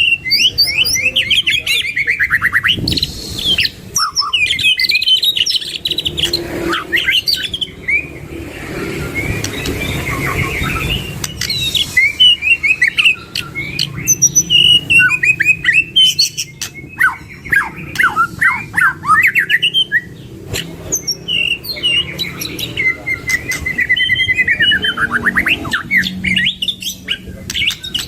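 Two white-rumped shamas singing hard: fast, varied phrases of whistles, rapid trills and sweeping notes, with song packed with mimicked calls, separated by brief pauses.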